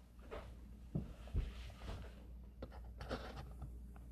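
Faint scattered knocks and clicks, four or so short ones, over a steady low hum.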